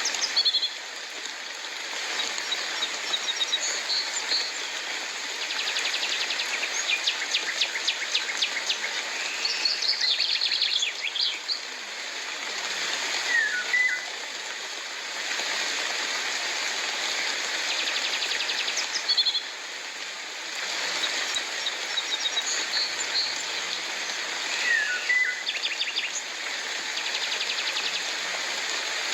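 Steady hiss of falling rain with several birds calling over it: rapid trills and short falling chirps, repeated throughout.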